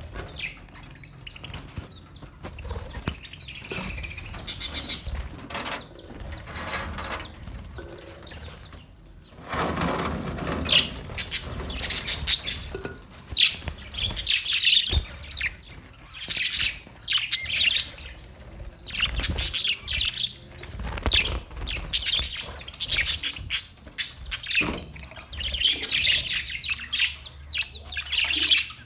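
A flock of budgerigars chirping and twittering continuously in quick, high-pitched calls. A broad rustling flurry comes about ten seconds in.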